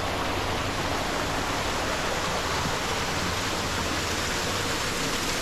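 A small canyon waterfall rushing steadily, its flow running high after rain.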